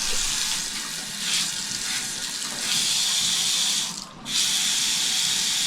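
Water running from a tap in a steady hiss under strong pressure, growing louder near the middle and dropping out for a moment about four seconds in before returning.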